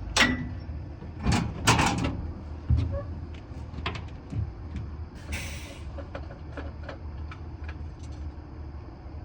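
Several sharp knocks and clunks, the loudest in the first two seconds, and a short hiss about five seconds in, over a steady low engine hum.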